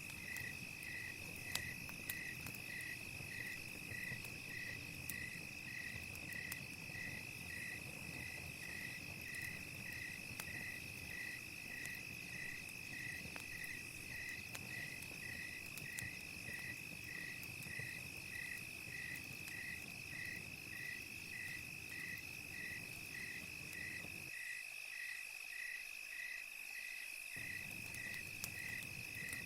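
Night ambience of crickets: a steady high insect trill with a cricket chirping regularly, about one and a half chirps a second, over scattered faint crackling clicks from a campfire. The low background rumble drops out for about three seconds near the end.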